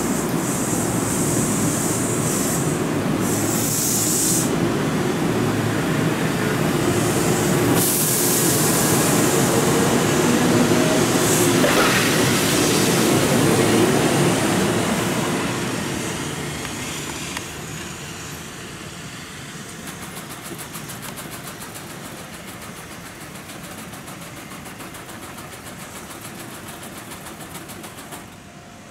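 Kintetsu electric train running along the station platform, with steady wheel-and-rail rumble and short bursts of air hiss near the start and about eight seconds in. The train sound fades after about fifteen seconds to a quieter steady background.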